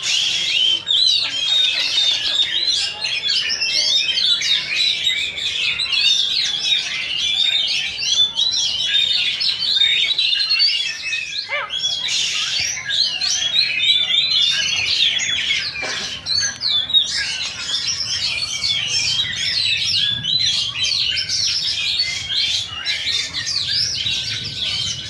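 Many oriental magpie-robins singing at once: a dense, unbroken tangle of quick whistles and chirps.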